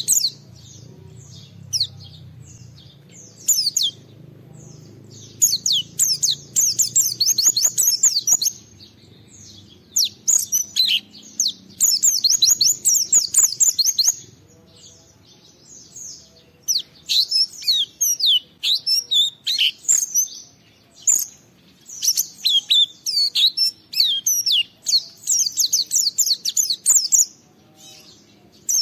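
White-eye (pleci) singing a rapid, high-pitched twittering song in runs of a few seconds with short pauses between them.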